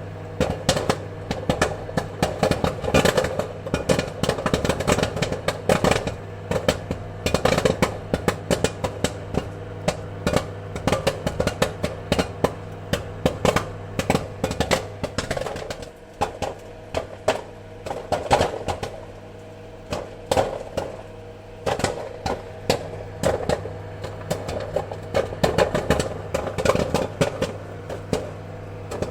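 Popcorn kernels popping in quick, irregular bursts of sharp pops, thinning out a little midway and then picking up again, over a steady low hum.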